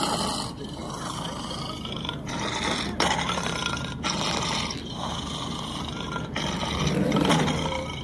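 Cartoon leopard seal sound effects: a run of rough growls and roars with short breaks between them.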